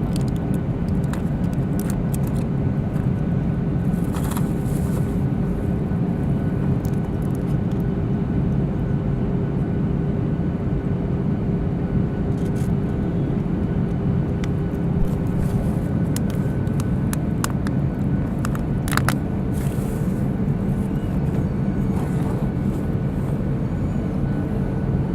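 Airliner cabin noise while descending toward landing: a steady rumble of engines and airflow. It carries a hum that rises slightly in pitch about two-thirds of the way through, along with a few faint clicks and rattles.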